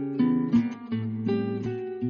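Instrumental song introduction on guitar, plucked notes and chords ringing one after another several times a second.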